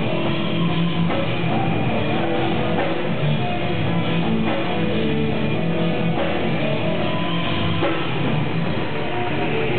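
Rock music with electric guitar and drums, played through a car audio system.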